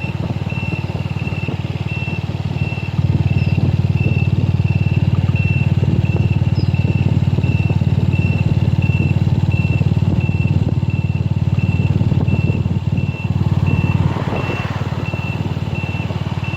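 A loud, steady low rumble, stepping up about three seconds in and easing near the end, with a high electronic beep repeating about three times a second.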